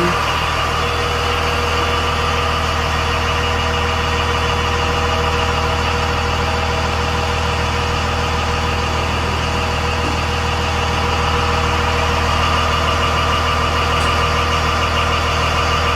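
Cummins 5.9-litre turbo diesel engine of a Blue Bird TC2000 school bus idling with a steady, even hum.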